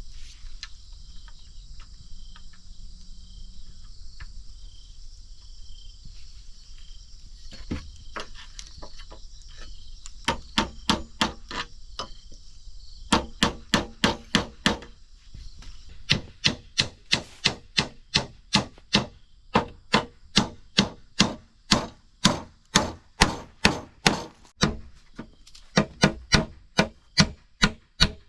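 Insects chirring steadily. From about ten seconds in comes a run of sharp, evenly paced blows on wood, about two to three a second, broken by short pauses.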